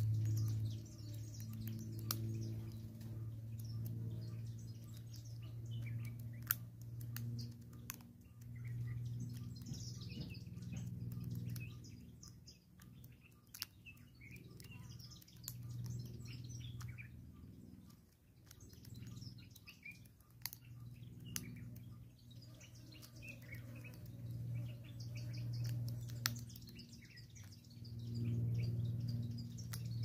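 Small birds chirping and twittering on and off, with scattered sharp taps. Underneath, a low hum swells and fades every few seconds and is the loudest sound.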